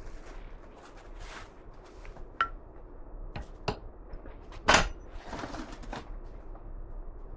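Tools and metal parts being handled on a workbench: scattered clicks and knocks, one with a short metallic ring about two and a half seconds in, and the loudest knock near five seconds.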